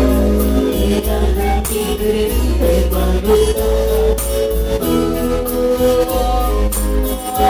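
Cumbia band playing with a steady percussive beat, a strong bass line and sustained melody notes over it.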